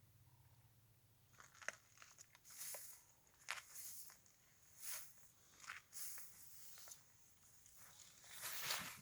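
A female African elephant close by making a series of faint scraping, rustling sounds with a few sharp clicks, roughly one every second.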